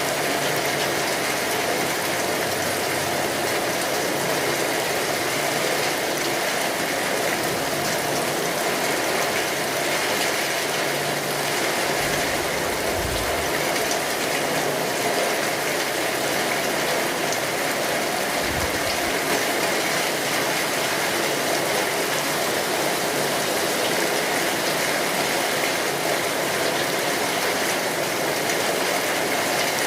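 Steady heavy rain drumming on a tin roof, mixed with a crackling wood fire. Twice near the middle comes a brief low thump.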